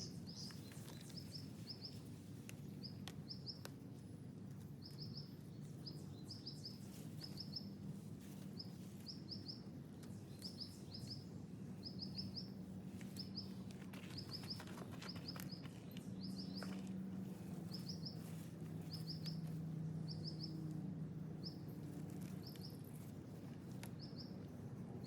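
Outdoor ambience: a high chirp repeats steadily in quick groups of two to four notes, about once a second, over a low steady hum, with faint scattered rustles and clicks as dry mullein leaves are handled.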